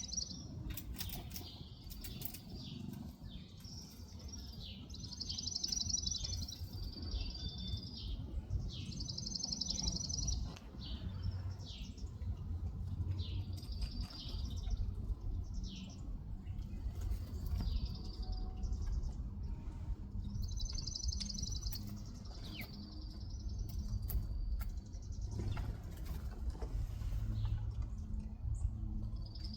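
Backyard birds chirping and twittering again and again, some notes short and sharp, some quick buzzy trills, over a steady low background rumble.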